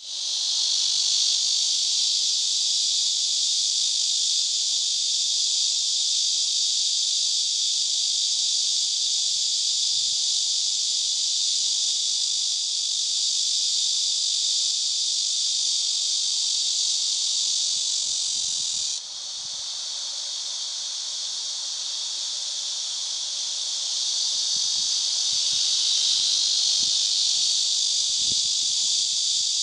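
Cicadas singing: a loud, steady, high-pitched buzz. About two-thirds of the way through, the loudest voice cuts off suddenly, leaving a softer buzz that builds back up near the end.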